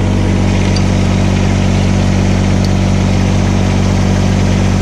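Kubota BX1860 compact tractor's three-cylinder diesel engine running steadily.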